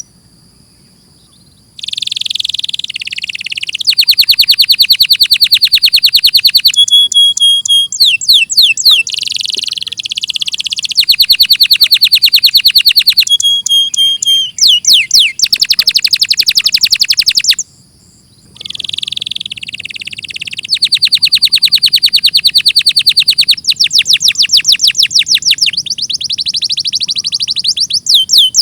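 Domestic canary singing a long, loud song of fast trills and rolling runs of repeated high notes, some sweeping rapidly up and down. The song pauses briefly at the start and again about two-thirds through.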